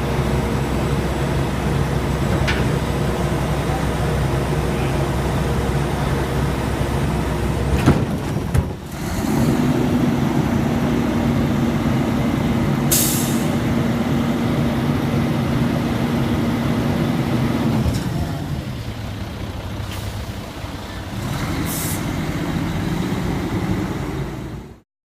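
Garbage truck engine running, rising to a steady higher drone for about eight seconds and then dropping back, with a sharp knock shortly before the rise. Two short air-brake hisses, about halfway through and near the end. The sound cuts off abruptly just before the end.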